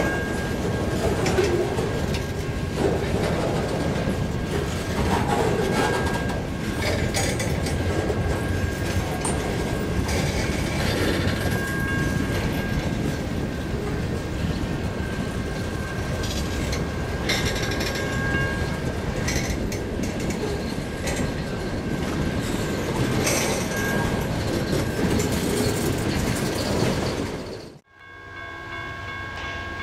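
A freight train of hooded steel coil cars rolling past close by: a steady rumble of steel wheels clicking over the rail joints. About 28 seconds in it cuts off suddenly, and a distant multi-chime train horn follows.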